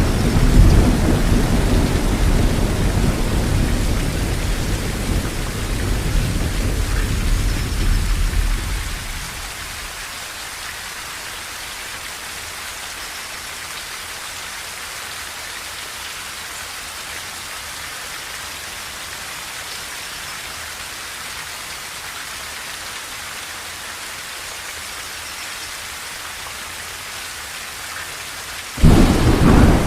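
Heavy rain on a tin roof with thunder. A long low rumble of thunder fades out about nine seconds in, leaving the steady hiss of rain, and a new thunderclap breaks in suddenly near the end.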